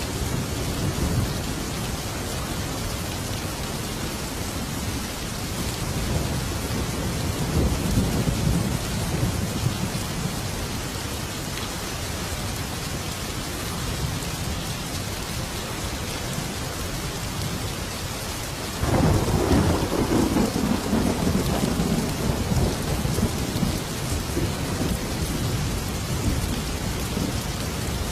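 Thunderstorm: steady heavy rain with rolling thunder, and a sudden loud thunderclap about two-thirds of the way through that rumbles away over several seconds.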